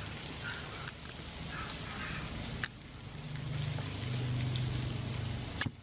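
Giant tiger prawns sizzling in butter, garlic and ginger in a wok: a steady frying hiss with a few sharp pops, and a low steady hum under it that grows louder in the second half.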